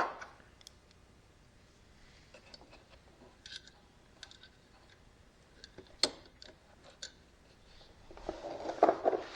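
Faint, scattered light clicks of a small nut and washer being handled and fitted onto a bolt by hand, with a louder rustle of handling near the end.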